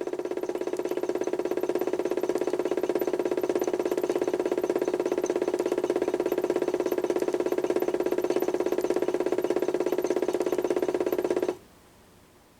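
HUSTOO 775 DC motor of a modified toy washing machine, PWM-driven, turning the drum through a belt and pulley with a steady pitched hum and a fast ripple. It builds slightly over the first couple of seconds, runs evenly, then stops abruptly about eleven and a half seconds in.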